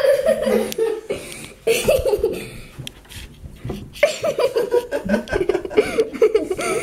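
People laughing in bursts: a short bout at the start, another about two seconds in, and a longer one from about four seconds in.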